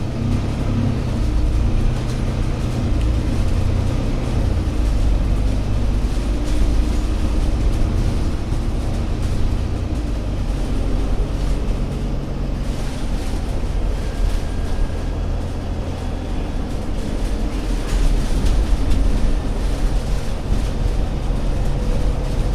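Diesel engine of an Alexander Dennis Enviro500 MMC Euro 6 double-deck bus running on the move: a steady low rumble whose note rises and drops several times as the bus changes speed.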